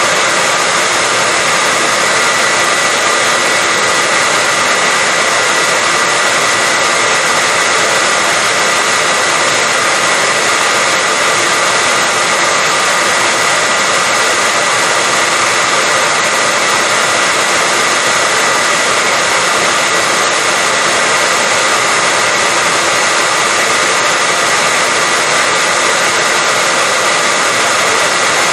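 Hair dryer running steadily: a loud, unbroken rush of blowing air with a faint steady high whine in it.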